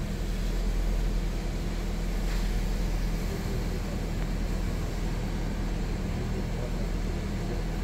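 Honda Civic engine idling with a steady low hum, heard from inside the cabin.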